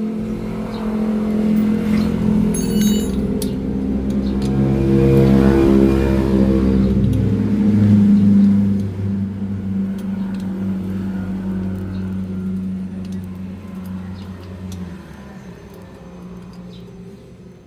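Suzuki Satria FU motorcycle engine running, rising in level in the middle as it is revved, then settling and fading toward the end.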